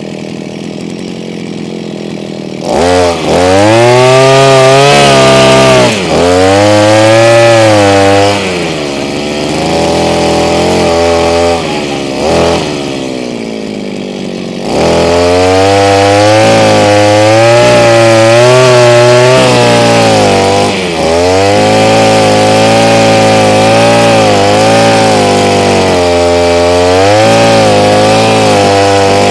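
Two-stroke engine of a Stillo Super 143 brush cutter with a 40 mm cylinder and a Walbro carburettor, revved from idle to full speed about three seconds in. It drops back to idle for several seconds in the middle, then is revved up again and held high to the end with short dips.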